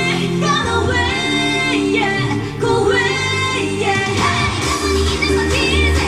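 K-pop girl group song: female voices singing over a pop backing track, with the bass line growing heavier about two-thirds of the way through.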